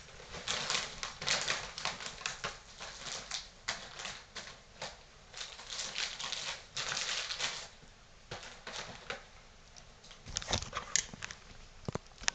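Package contents and packaging being handled: irregular rustling and crinkling for the first several seconds, then sparser clicks and taps near the end.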